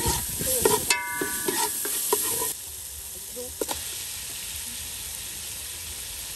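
Yellow spice paste sizzling in hot oil in an aluminium pot, while a metal ladle scrapes and knocks against the pot and briefly rings about a second in. About two and a half seconds in, the sizzling drops suddenly to a quieter hiss, with an occasional clink.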